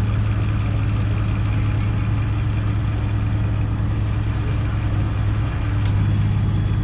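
Truck engine idling steadily, an even low hum that does not change.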